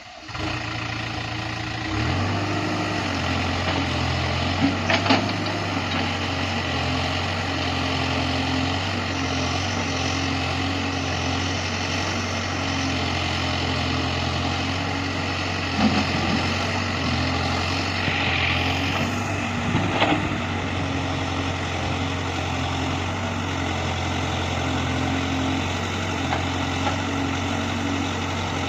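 Heavy diesel engine running steadily, getting louder about two seconds in, with a few short sharp knocks over it.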